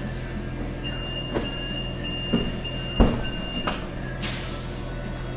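BMW F800GS motorcycle's parallel-twin engine running at a steady low speed. Over it come a high beeping tone for about three seconds, a few sharp knocks (the loudest about three seconds in) and a short hiss near the end.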